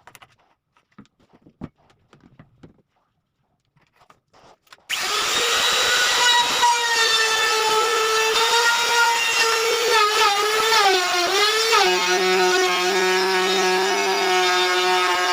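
Homemade table saw's electric motor switching on about five seconds in after a few faint clicks, then running with a loud, steady high whine. Its pitch sags and wavers for a couple of seconds in the middle, then settles again.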